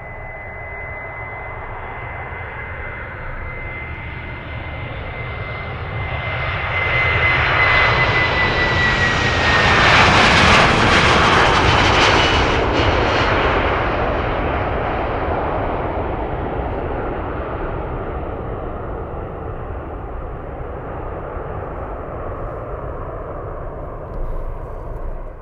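Jet airliner passing close by: the engine noise builds to a peak about ten seconds in and then fades away. A steady high fan whine drops in pitch as the aircraft passes.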